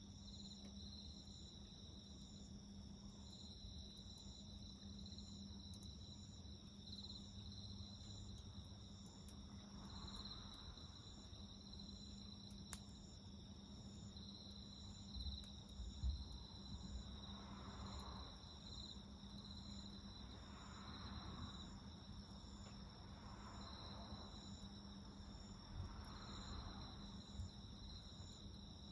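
Crickets chirping steadily, faint high-pitched trills with a quick even pulse, with a few soft crackles from a wood campfire.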